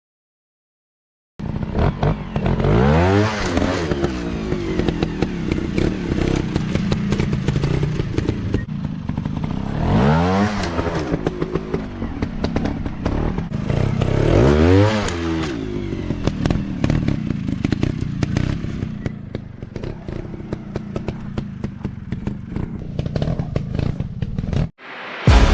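Dirt bike engines revving hard on a rough trail, rising and falling in pitch three times, with clatter and crackle throughout. It starts after a second or so of silence and cuts off just before the end.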